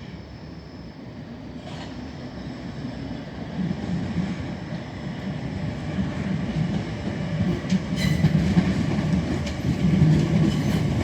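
A train running into the station, getting steadily louder as it approaches, its wheels clacking over rail joints with a few sharp clicks.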